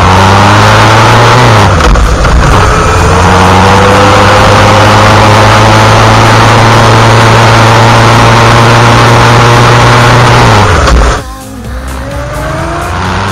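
Yamaha XJR1300's air-cooled inline-four engine heard from onboard under heavy wind rush: it revs up, drops pitch at a gear change about two seconds in, then pulls at a nearly steady speed. Near the end the throttle closes, the engine note falls and the sound drops, before it starts to pick up again.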